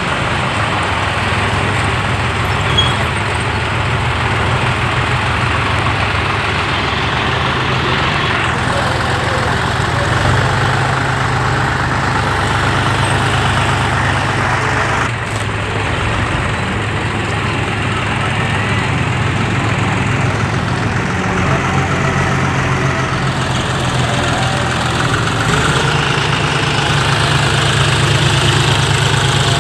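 Tractor engine running steadily, its pitch and level shifting a few times as the throttle or load changes, with a brief dip midway and a rise near the end.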